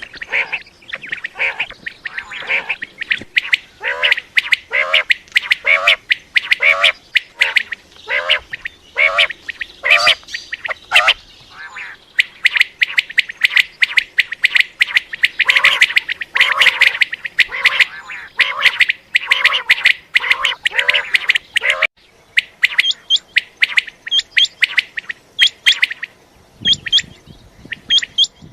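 Common quail calling: a rapid run of short, repeated calls. Near the end the calls are sparser and higher.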